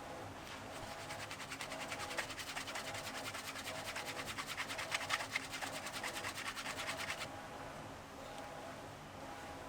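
Rapid back-and-forth rubbing on leather, about ten even scratchy strokes a second for some six seconds, stopping abruptly near the end.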